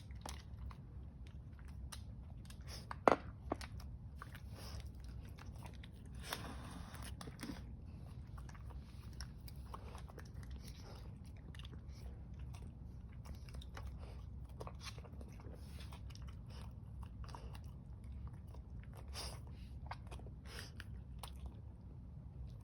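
A person biting into and chewing chicken, with irregular short crunches over a low steady hum. One sharp, much louder click comes about three seconds in.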